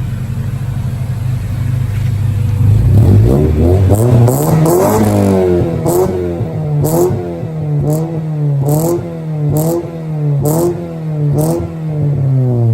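Car engine idling, then revved: the pitch climbs about three seconds in, then rises and falls in quick repeated blips about once a second.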